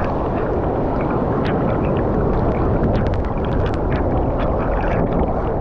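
Rushing river water below a waterfall, a loud steady rush, with small sharp splashes scattered through it, most of them in the middle and later part.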